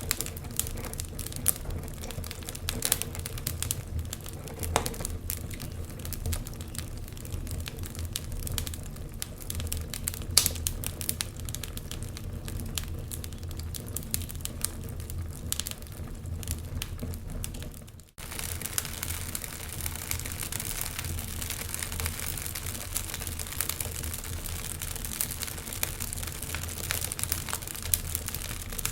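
Wood fire crackling, with irregular sharp pops over a low, steady rumble of flames. About two-thirds of the way through, the sound drops out for an instant and comes back with more hiss.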